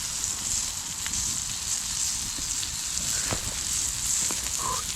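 Food sizzling steadily in a very hot pan over a campfire, with scattered small pops and crackles.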